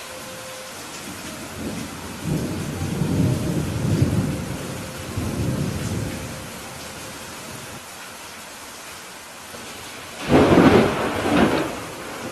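Steady rain falling, with thunder rumbling low from about two seconds in for several seconds, then a louder, sharper thunderclap near the end.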